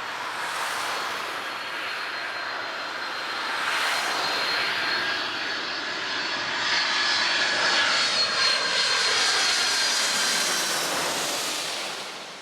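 Jet engines of a departing Boeing 737-500, its CFM56-3 turbofans at takeoff power. A steady roar with a high fan whine that grows louder in the second half and fades away near the end.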